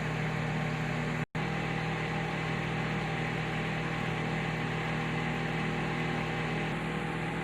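Microwave oven running while it heats eggs in salted water: a steady, even hum. The sound cuts out completely for a split second about a second in.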